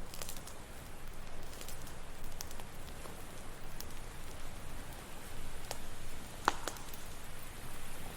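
Campfire crackling, with scattered sharp pops (the loudest about six and a half seconds in), over a steady wash of ocean waves.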